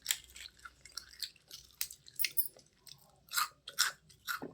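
A person chewing a crunchy, dry food close to the microphone: a string of short, crisp crunches, louder just past the middle.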